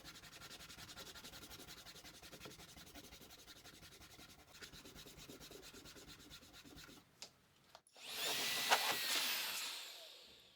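Rhythmic rubbing or sanding on wood for about seven seconds, then, about eight seconds in, a much louder rush of sound with pitch sweeping through it that fades away near the end.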